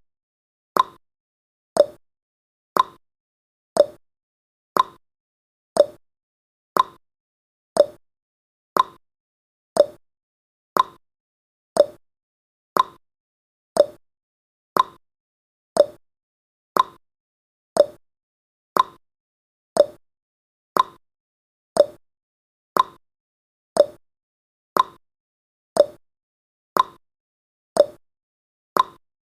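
Clock-style tick-tock of a countdown timer's sound effect: one sharp tick each second, alternating higher and lower in pitch.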